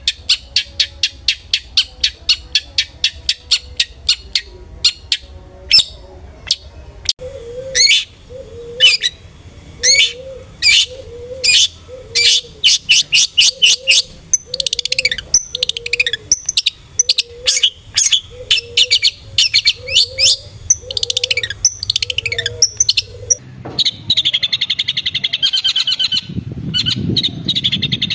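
Long-tailed shrike (cendet) calling: a fast run of sharp ticks, then harsh separate calls about one to two a second, switching near the end to a dense continuous chatter. This is the shrike call used as a lure to set a kept cendet calling.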